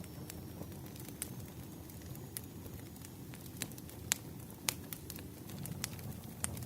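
Campfire burning: irregular sharp crackles and pops over a low, steady rumble of flames.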